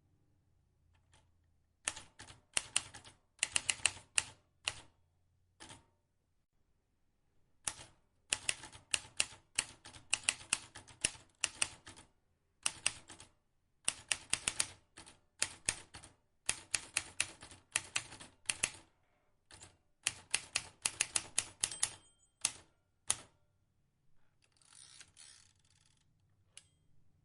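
Vintage manual typewriter keystrokes: runs of sharp key clacks at a fast typing pace, broken by short pauses of a second or so. Near the end comes a brief, softer rasping noise.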